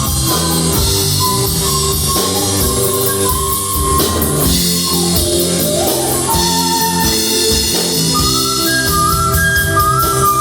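Rock band playing an instrumental passage: drum kit and guitars under a sustained lead melody, with a falling-then-rising slide about five seconds in.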